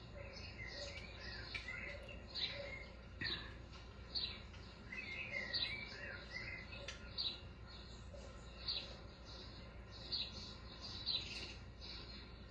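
Small birds chirping, with quick repeated high chirps several times a second and short warbling phrases.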